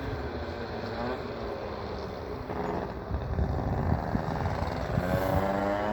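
A motor engine running, its pitch rising and falling and climbing near the end.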